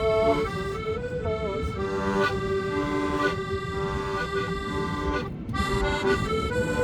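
Accordion playing a trot-song melody, moving between sustained reedy notes held over chords.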